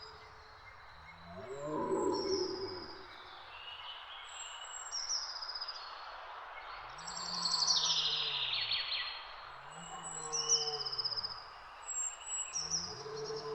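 Several birds singing, with short repeated high phrases, over a steady background hiss. Low calls that rise and fall in pitch come in about four times.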